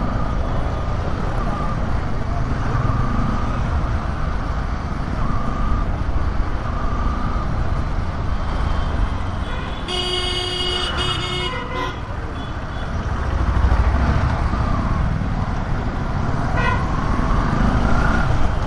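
Motorcycle riding through city traffic: a steady engine and road rumble. A vehicle horn sounds for about two seconds midway, and there is a short honk near the end.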